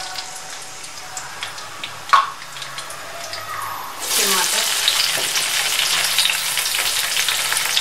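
Chopped tomatoes dropped into hot oil and fried onions in an aluminium pot: a loud sizzle starts suddenly about halfway through and keeps going. Before it, a few light clinks and one sharp knock about two seconds in.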